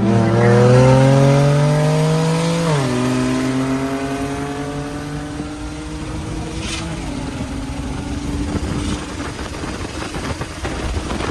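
Turbocharged BMW 335is inline-six accelerating hard, its note climbing steadily, then dropping sharply with a quick dual-clutch upshift about three seconds in. After the shift it pulls on at a steadier, lower pitch.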